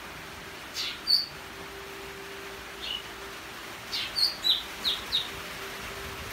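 Bird chirping: short, high chirps, two about a second in, one near the middle, then a quick run of five toward the end.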